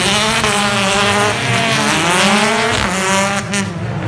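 Several British Touring Car Championship race cars passing at speed, their turbocharged 2-litre four-cylinder engines rising and falling in pitch as they go by, overlapping one another.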